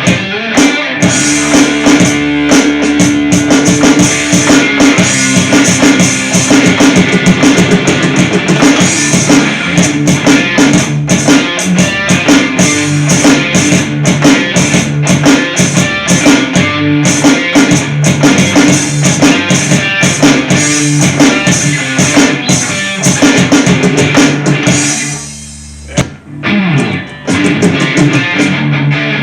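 Hard rock music with a full drum kit and guitar, playing loudly; it drops away for a moment about 25 seconds in, then the band comes back in.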